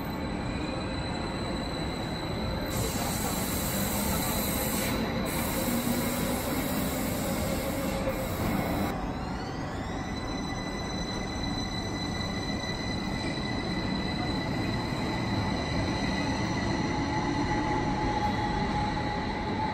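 Double-deck electric commuter trains pulling out of the station: a steady rolling rumble with a high whine and wheel squeal. About nine seconds in, a short rising whine comes in as a train gathers speed, then holds steady.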